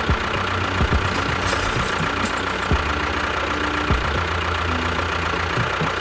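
A small motor running steadily with a constant whine, with a few short knocks scattered through.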